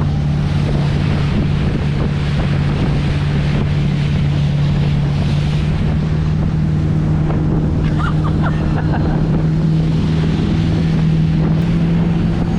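Motorboat engine running steadily under way, its pitch rising slightly near the end, with wind buffeting the microphone and water rushing past.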